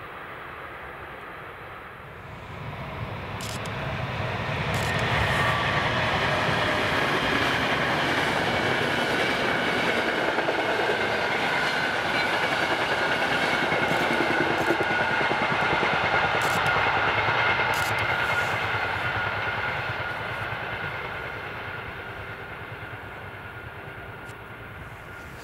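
A train passing on the line: it comes up over a few seconds, runs loud for about fifteen seconds with the noise of wheels on rails and several steady high tones, then fades away.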